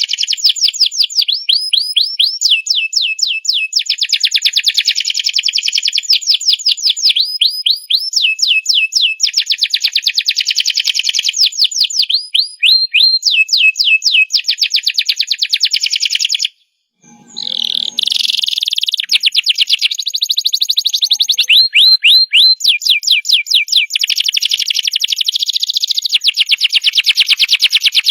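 Domestic canary singing a long song of rapid trills: runs of fast repeated notes, phrase after phrase. It breaks off briefly a little past the middle, then picks up again.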